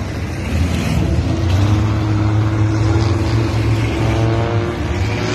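Car engine running steadily with a strong low hum, its pitch rising slowly; a second, higher engine tone joins about four seconds in.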